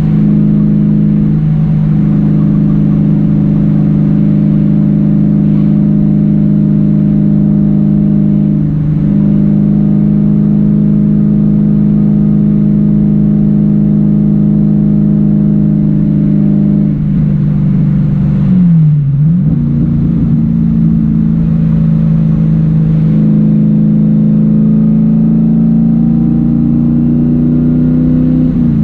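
Factory Five Daytona Coupe's V8 engine running hard at high revs on track, its pitch holding nearly steady for long stretches. About two-thirds of the way through, the revs dip sharply and climb back. Near the end the pitch rises slowly, then drops.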